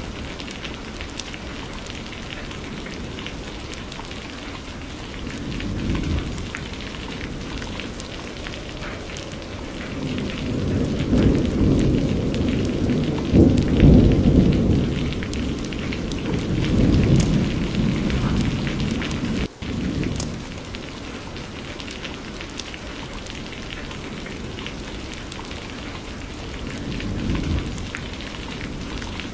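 Steady rain falling, with thunder rumbling underneath. A long roll of thunder builds through the middle and is loudest about halfway. Shorter rumbles come before it and near the end.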